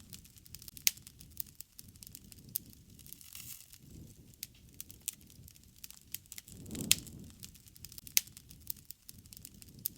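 Wood campfire crackling, with irregular sharp pops and snaps, the loudest about seven seconds in, over a low, uneven rumble.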